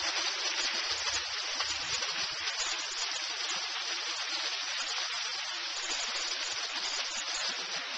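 Water from a landscaped boulder waterfall splashing and pouring steadily over the rocks.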